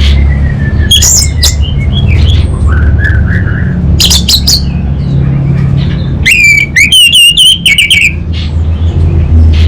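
Orange-headed thrush singing in varied phrases of short, sharp whistled and scratchy notes, with a quick run of rapidly repeated notes about six seconds in. A steady low hum lies beneath the song.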